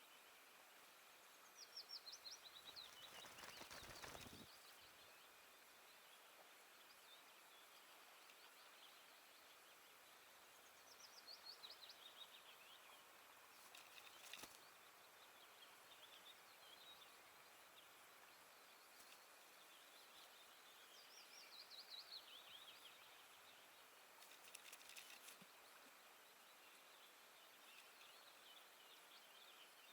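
Faint songbird song: a descending trill, about two seconds long, repeated three times at roughly ten-second intervals, with a few faint knocks or rustles in between.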